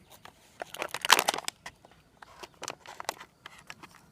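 Crinkling and crackling of a foil-lined Mountain House freeze-dried meal pouch being handled and opened, as an irregular run of crackles that is densest and loudest about a second in.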